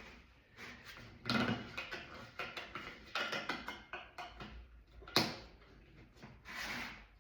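Handling noises: scattered rustling and light knocks, with one sharp click about five seconds in and a brief swish near the end.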